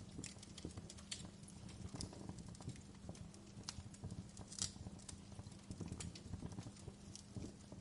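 Wood fire crackling in a fireplace: irregular sharp pops and snaps over a low soft rumble, with one louder pop about four and a half seconds in.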